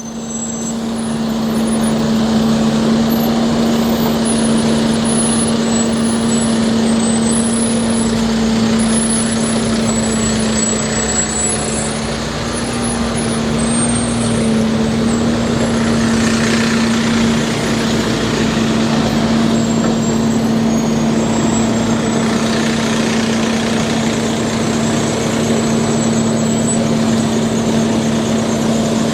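Heavy snow-clearing vehicle engine running steadily, a constant low drone with no change in speed.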